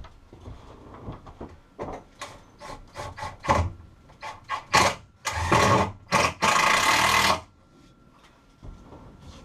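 Power drill run in a series of short trigger bursts, then two longer runs of about a second each near the end, apparently driving fasteners to hold a part in place.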